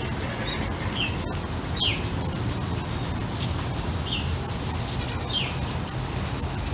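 Birds chirping: about five short, high, falling chirps spread through, over a steady low rumble.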